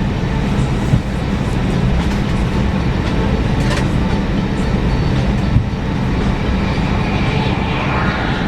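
Steady rumble and hum inside an Airbus A320 cabin before takeoff, with a couple of light thumps, about a second in and again a little past halfway.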